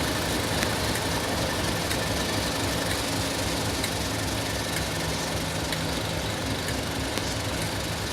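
Diesel locomotive engine idling steadily, with a low even throb.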